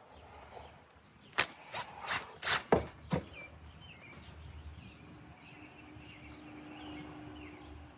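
A quick run of about six sharp clicks and knocks in under two seconds, the first the loudest, as tools or trimmer parts are handled during reassembly. Birds chirp faintly throughout, and a low steady hum comes in during the second half.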